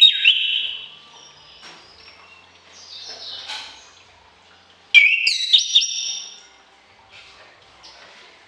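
Songbird singing: a loud whistled phrase at the start and another about five seconds in, with a softer, scratchy run of notes between them.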